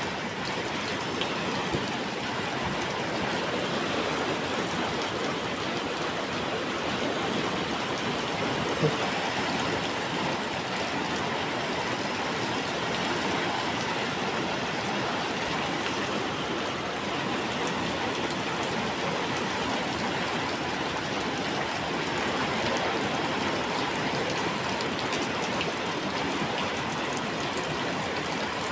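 Steady rain falling, an even rushing hiss throughout, with a single short tap about nine seconds in.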